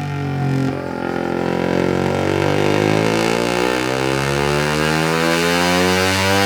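Suzuki GSX-R150's single-cylinder engine breathing through a Yoshimura R77 full-system exhaust during a dyno run. After a short dip about a second in, the revs climb steadily and the pitch rises.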